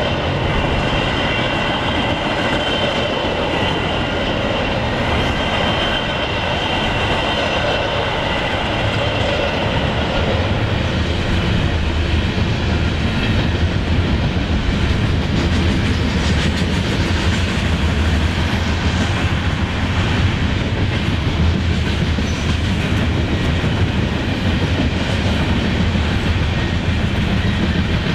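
Trains passing close by: Metra bilevel commuter cars, then a Union Pacific coal train of hopper cars rolling past with a steady low rumble and wheel clatter. For the first ten seconds or so a high steady whine sits over the noise, then fades out, and the rumble grows stronger.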